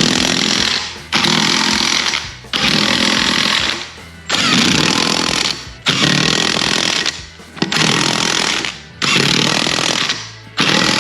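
A power tool run in repeated bursts of about a second each, eight or so in a row with short pauses between.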